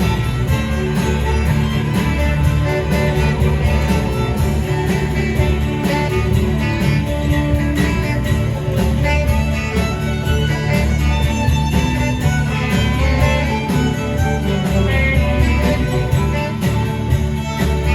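Live band music: an instrumental passage with a steady beat and no singing.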